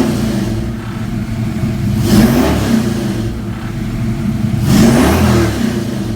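Mustang engine with a Holley Sniper EFI, cold with no warm-up, revved sharply three times and settling back to idle between blips; the quick throttle response shows the EFI running well from a cold start.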